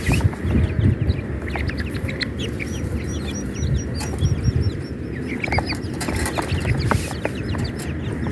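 Grey francolin chicks peeping in many short, high chirps, with a quick run of them about three seconds in, over low clucking.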